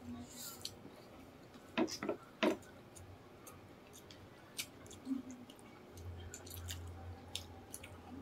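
Close-up eating sounds of people chewing chicken feet and rice by hand: wet chewing and lip smacks with scattered sharp clicks, the loudest few about two seconds in. A low steady hum comes in near the end.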